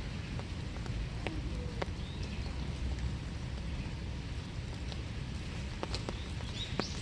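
Steady winter rain falling in woodland, with scattered individual drops ticking sharply on nearby surfaces.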